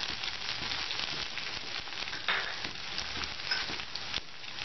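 Chopped onions and green chillies sizzling and crackling in hot oil in a pan, with a spatula stirring through them.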